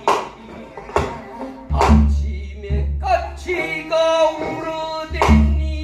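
Korean namdo folk song in the pansori-style vocal manner, a singer holding long wavering notes from about halfway in, over several sharp drum strokes, two of them with a deep boom.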